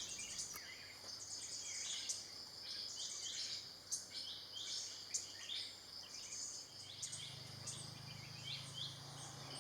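Small birds chirping in many short, quick calls over a steady high insect drone.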